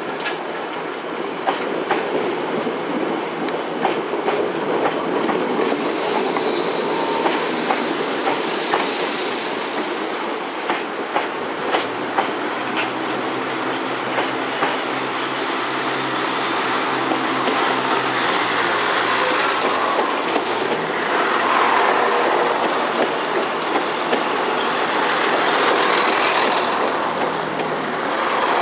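Southern Class 377 Electrostar electric multiple unit rolling into the platform, its wheels clicking over rail joints again and again, with a faint high wheel squeal. The rolling noise grows louder as the train draws close alongside near the end.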